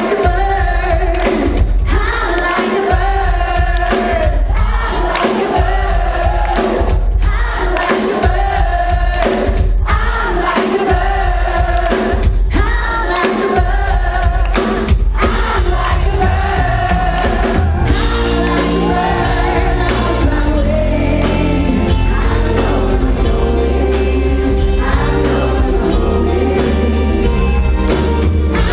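Live pop ballad: a female lead singer with layered vocals over the band, loud and steady. About 18 seconds in the singing thins out and sustained low chords take over.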